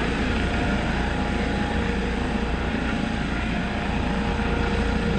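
Steady aircraft engine noise, an even rumble with a faint steady hum running through it.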